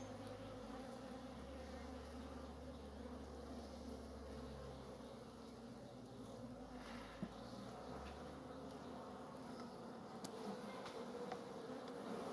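A honeybee colony humming steadily from an open hive during an inspection, with one light click about seven seconds in.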